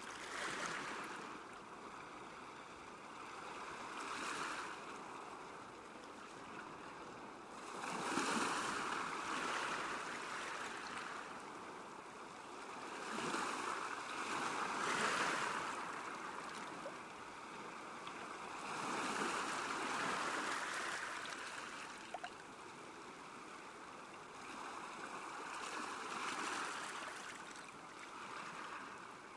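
Small waves washing onto a lakeshore: a hiss of water that swells and fades every few seconds.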